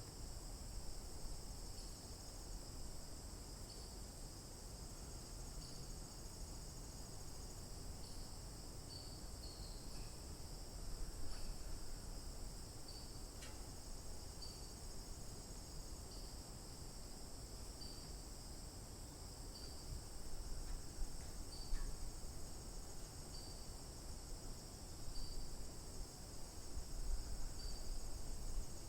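Steady high-pitched chorus of crickets, unbroken throughout, with a short chirp repeating about every two seconds just below it and a low rumble underneath.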